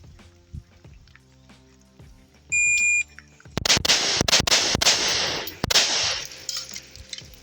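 Shot timer's start buzzer beeps once, a steady high tone for about half a second. About half a second later a rapid string of rifle shots begins, fired in quick pairs, with each shot echoing.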